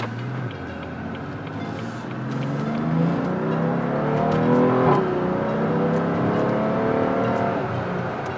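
BMW F80 M3's twin-turbo straight-six with Active Autowerke equal-length mid pipes, accelerating: the exhaust note climbs in pitch for about three seconds, drops sharply at an upshift about halfway through, then climbs again before easing off near the end.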